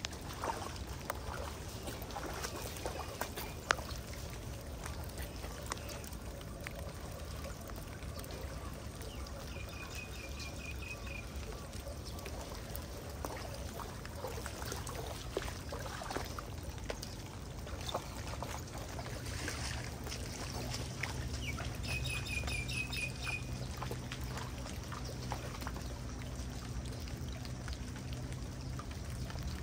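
Flood water pouring and trickling steadily over a low rumble. A short run of high chirps comes twice, about a third of the way in and again about three-quarters through.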